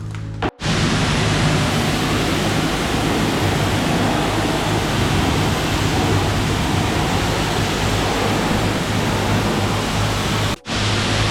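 High-pressure water spray washing a car: a steady, loud hiss with a low pump hum underneath. It breaks off briefly about half a second in and again near the end.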